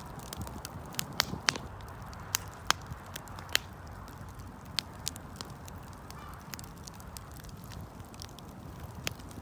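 Wood campfire burning with a steady low rush and irregular sharp crackles and pops of burning wood, several in quick succession in the first few seconds, then sparser.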